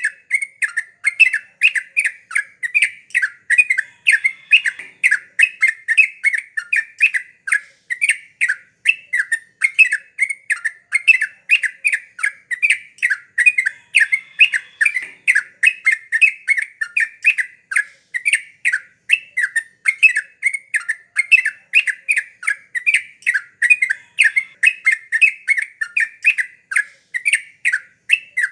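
Yellow-vented bulbul (trucukan) singing hard and continuously: an unbroken stream of short, bubbly chattering notes, about three or four a second.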